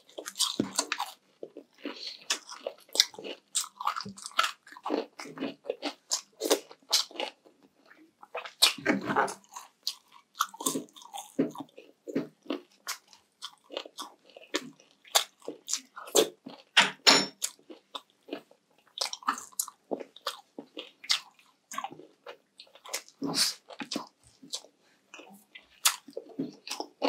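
Close-up crunching and chewing of crispy fried pork: many sharp, irregular crackles as the crisp crackling is bitten and chewed.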